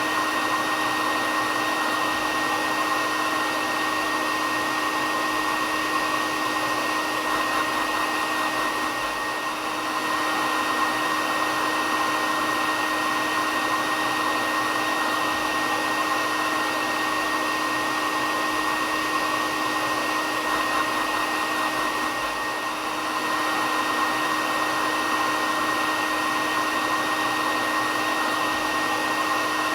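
Hair dryer running steadily: a continuous rush of air with a steady motor whine over it, dipping slightly in level twice.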